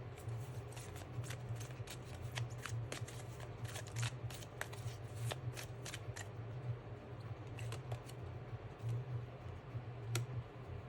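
A deck of tarot cards being shuffled: a rapid run of card flicks and snaps for about six seconds, then a few single clicks later on. A low steady hum sits underneath.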